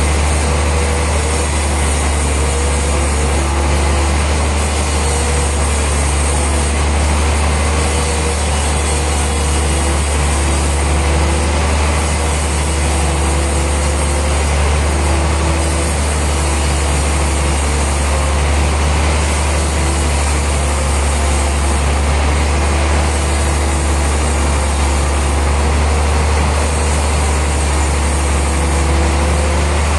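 Sawmill machinery running steadily, with a strong low hum and a mid-pitched whine that wavers up and down.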